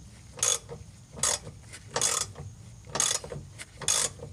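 Large hand ratchet on a 12 mm sway bar bushing bracket bolt, clicking in a short burst on each return stroke: five strokes about a second apart as the bolt is worked loose.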